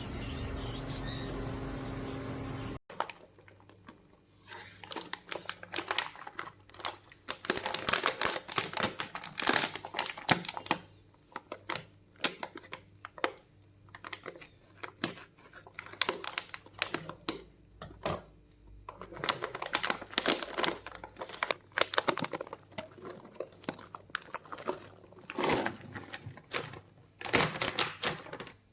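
A steady hum cuts off abruptly about three seconds in. After it comes irregular crinkling, rustling and clicking, as of things such as packaging being handled, in uneven clusters.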